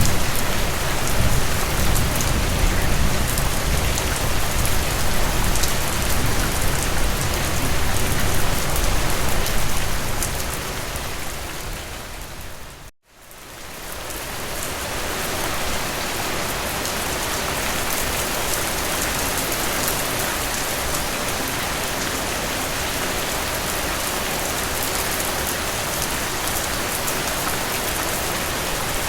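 Steady rain falling, a dense even hiss, with a deeper low rumble underneath for the first ten seconds or so. About halfway through, the rain fades out to a moment of silence and fades back in, like the join of a looped recording.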